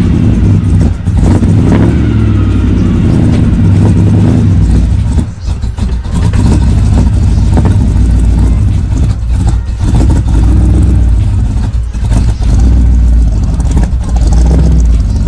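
Big-block V8 of a 1984 Chevrolet K5 Blazer running loudly after a cold start, its revs rising and falling, with a brief drop in level about five seconds in.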